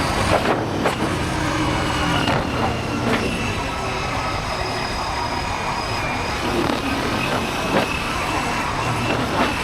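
Motorcycle on the move: steady wind and road noise over the engine's running, with a few brief knocks along the way.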